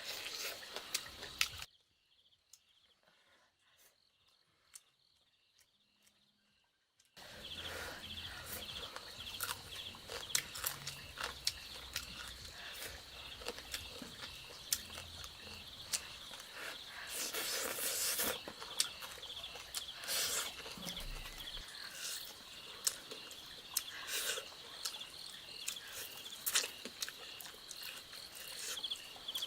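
Insects chirring in a steady high, fast-pulsing chorus, with scattered sharp clicks and taps over it. About two seconds in the sound drops out to near silence for roughly five seconds, then comes back.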